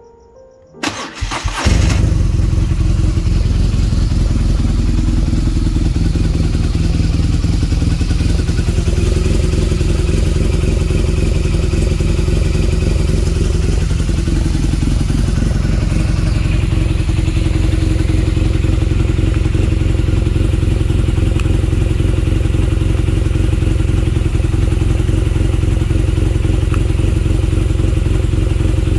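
BMW R nineT's air/oil-cooled 1170 cc boxer twin cranking and catching about a second in, then idling steadily.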